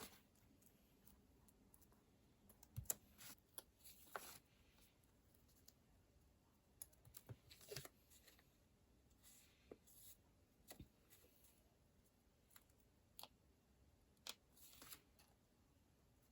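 Quiet desk sounds of working on a paper planner: scattered light clicks and taps, with a few brief rustles of paper.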